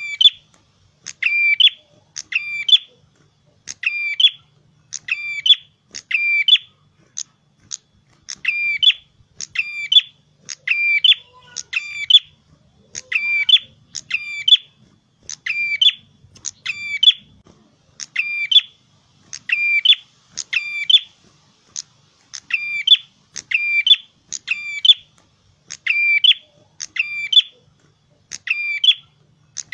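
A prenjak kepala merah (a small prinia-type songbird) singing persistently. It repeats sharp, high chirping notes in quick pairs and threes, about one cluster a second, without a break.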